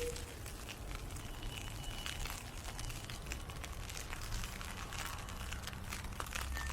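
Ice pellets hitting an umbrella overhead: a dense, irregular crackle of tiny ticks over a low rumble.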